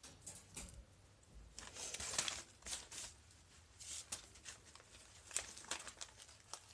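Kittens scrambling and climbing, their claws scratching and ticking on surfaces in irregular bursts, with light rustling.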